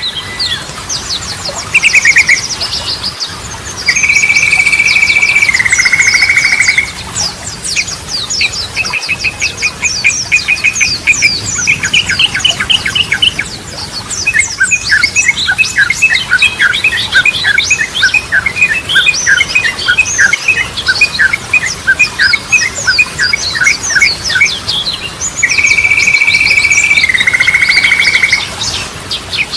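Yellow-vented bulbul (trucukan) song: fast chattering trills and clipped notes. About four seconds in, and again near the end, it holds a long loud whistle that steps down in pitch partway through.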